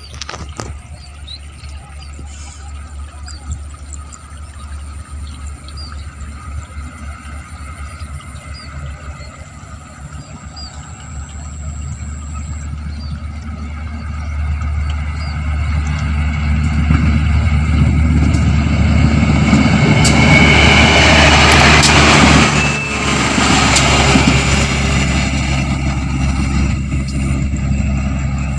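Diesel train approaching along the track, its engine and running noise growing steadily louder and peaking between about 17 and 23 seconds in, then easing off. Small bird chirps are heard in the first half.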